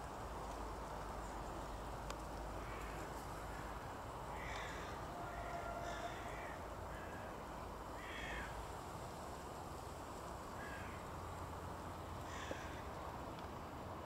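About six single harsh bird calls, spaced irregularly a second or two apart, over a steady background rumble.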